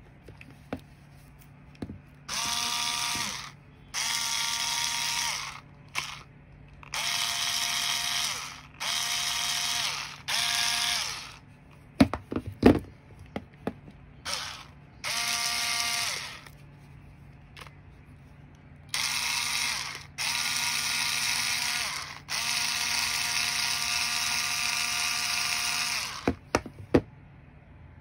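Black & Decker KC9036 cordless screwdriver's motor running in a series of short bursts, each a second or two, with a longer run of about four seconds near the end, and sharp clicks between some runs. It is running normally on its replaced battery cell.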